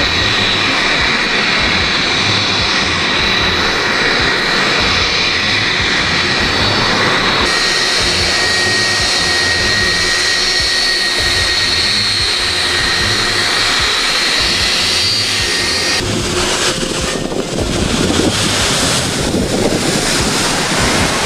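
Steady rushing engine noise with a thin high whine, of the kind an aircraft engine makes. Its tone shifts abruptly twice.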